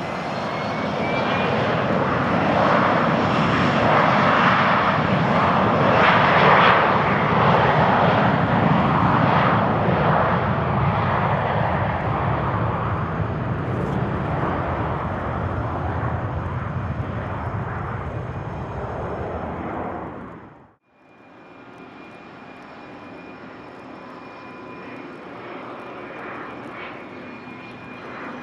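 Business jet engines passing close on the runway. The noise builds to a peak about six seconds in, then slowly fades. About twenty seconds in it cuts off abruptly, and a quieter, steady engine hum with a faint high whine follows.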